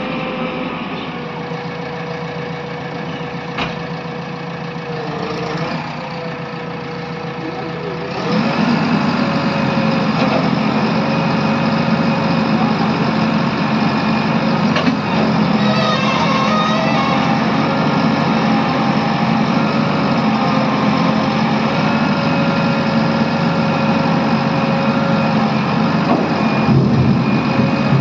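A vehicle engine running steadily, growing louder about eight seconds in and then holding at that higher level.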